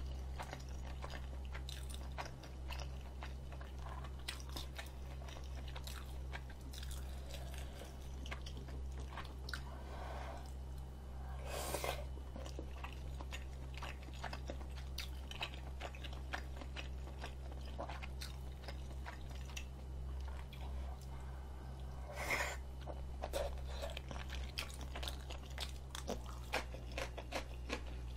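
Close-miked chewing of chewy tteokbokki rice cakes and noodles in spicy sauce, with many wet mouth clicks and smacks and a few louder bites. A steady low hum runs underneath.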